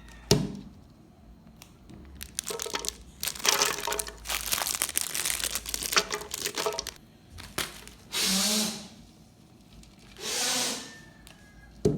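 Crinkling, crackling plastic packaging handled in a kitchen, with sharp clicks, then two short bursts of noise about two seconds apart.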